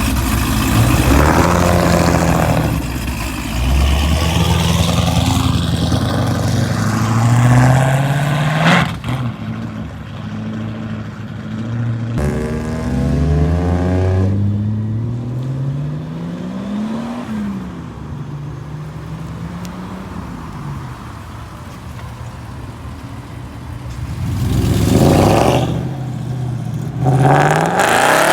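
Car engines accelerating hard as cars pull away one after another. Each engine's pitch climbs, then drops back at a gear change and climbs again.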